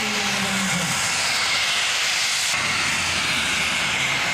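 Twin model jet turbines of a giant-scale Su-30 RC jet running in flight: a steady rushing hiss with a thin high whine above it.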